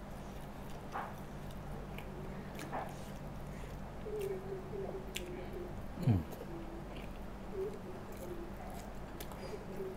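A man chewing a mouthful of rice and chicken eaten by hand, with small wet mouth clicks and smacks, over a steady low hum. About six seconds in, a short sound drops quickly in pitch and is the loudest moment.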